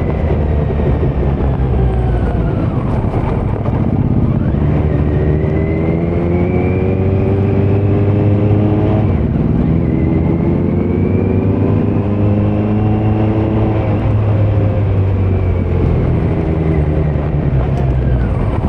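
2018 Kawasaki Z900's inline-four engine through a Leo Vince muffler on stock headers with no dB killer, pulling hard with its note rising. About nine seconds in the pitch drops sharply at a gear change, then climbs again, and over the last few seconds the rider rolls off and the note falls.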